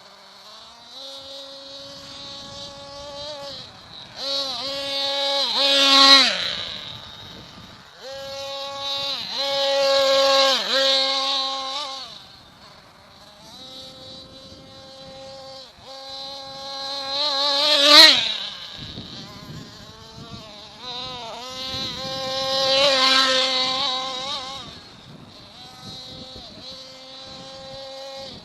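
Small nitro (glow-fuel) engine of an Ansmann Hogzilla RC monster truck running, settling back between repeated bursts of revving. It swells loud several times, most sharply about six and eighteen seconds in.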